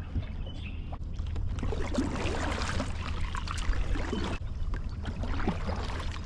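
Water splashing and trickling around a kayak, in two stretches with a short break between them, over a low steady rumble.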